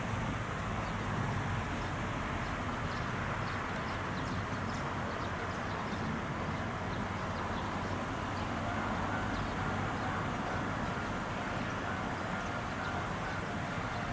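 Steady distant rumble of an Omi Railway electric train (set 105F) approaching. From a little past halfway, a faint level-crossing bell rings in broken tones.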